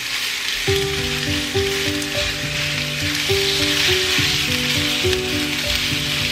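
Ground chicken and chopped onion sizzling steadily in hot oil in a frying pan as a spatula moves them. Background music comes in under a second in.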